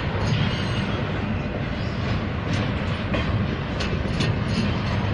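An intermodal stack train of container-loaded well cars rolls slowly past in a steady low rumble, with a few sharp metallic wheel clicks.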